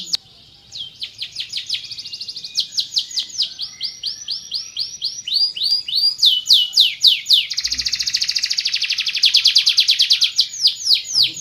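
Domestic canary singing a continuous song of repeated phrases: series of downward-sweeping whistled notes alternating with fast trills. The song starts after a brief pause just under a second in, and about halfway through it breaks into a very rapid, dense trill.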